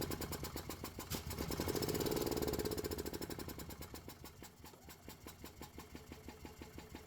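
Gas Club Car golf cart engine cranking over on its starter with a fast, even pulsing. It swells to its loudest about two seconds in, then eases off. The engine is being turned over to push fuel out of a disconnected fuel line, checking fuel delivery on a cart that won't start.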